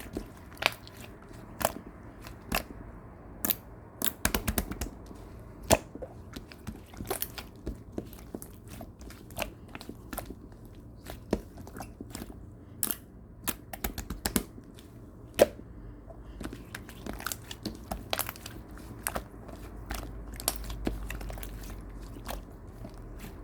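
Slime being squeezed, pressed and stretched by hand, giving off irregular sharp clicks and pops over a soft squishing, sometimes several clicks a second in quick runs.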